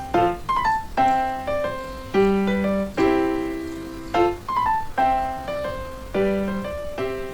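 Background piano music: chords struck about once a second with quick runs of notes between them, each note ringing and fading.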